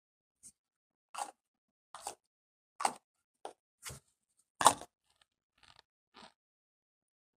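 A mouthful of cornstarch being chewed close to the microphone: a string of about nine short, separate mouth sounds at irregular intervals of roughly half a second to a second, the loudest a little before halfway.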